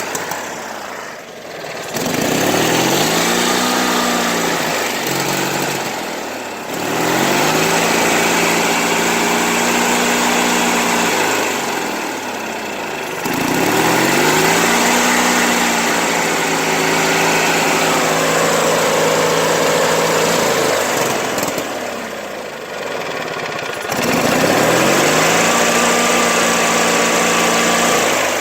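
Old zero-turn lawn mower engine surging: the revs climb, hold for a few seconds, then sag and nearly die, over and over, about four times. The owner takes it for sputtering and running lean once warm, and guesses the carburetor needs cleaning.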